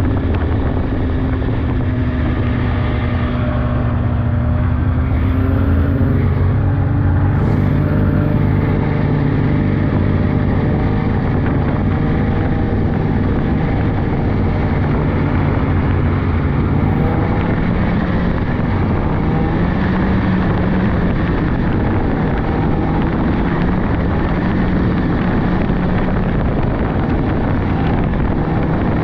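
Polaris 600cc two-stroke snowmobile engine running while riding a trail, its pitch shifting with the throttle in the first several seconds, then holding fairly steady.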